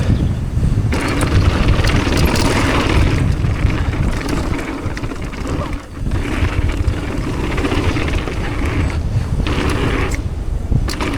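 Wind buffeting the microphone and tyres running over a dirt trail as a mountain bike descends, with surges of hiss and a short lull about six seconds in.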